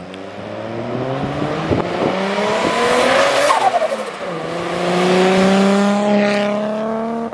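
Turbocharged Nissan Laurel with an RB25 straight-six accelerating toward the camera and passing close by. Engine pitch rises, drops sharply about halfway through at a gear change, then climbs again, loudest as the car goes by.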